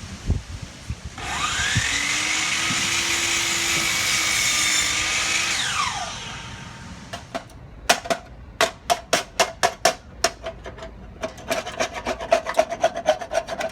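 A power tool spins up with a rising whine, runs steadily for about four seconds, then winds down. After a short pause comes a run of quick, rhythmic scraping strokes, about four a second, with a ringing tone.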